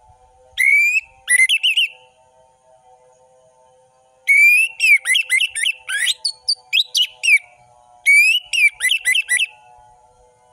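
Orange-headed thrush singing three loud phrases of quick, sharply slurred whistled notes, a short one about half a second in, a long varied one from about four seconds, and a shorter one near the end. A faint steady hum runs underneath.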